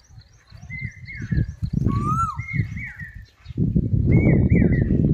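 Birds calling outdoors: a whistled phrase of a note rising then falling repeats about every second or two, over thin high chirps. A loud low rumble runs under the calls from about a second in and is the loudest sound in the second half.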